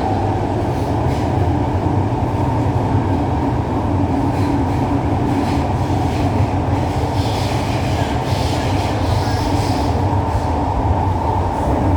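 Siemens C651 metro train running along the line, heard from inside the carriage as a steady rumble of wheels on rail with a few faint knocks. A higher-pitched hiss rises for a few seconds past the middle.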